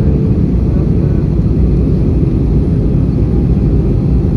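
Steady low roar of engine and airflow noise inside the passenger cabin of an Airbus A320 in flight, on approach.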